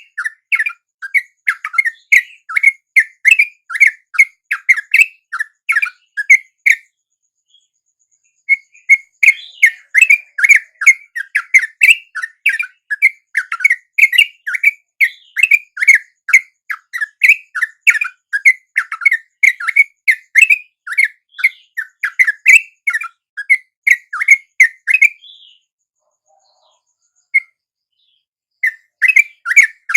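Yellow-vented bulbuls (trucuk) calling: loud, rapid short chirping notes, several a second, in long runs that break off about seven seconds in and again about twenty-five seconds in before starting up near the end.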